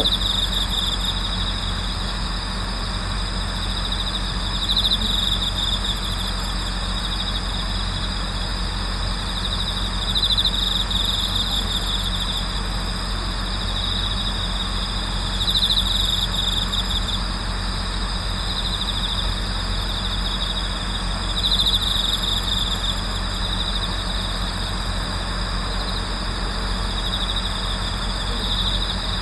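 Night chorus of autumn insects such as crickets: steady high-pitched trilling, with a louder song swelling up about every five or six seconds, over a low steady hum.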